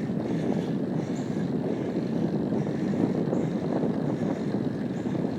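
Steady rushing wind and road noise on the microphone of a camera carried on a bicycle riding uphill, with no break or change.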